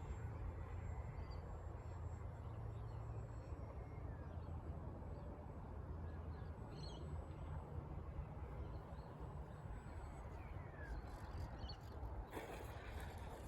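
Outdoor ambience: a low wind rumble on the microphone with a few faint bird chirps, and a brief rustle about twelve seconds in.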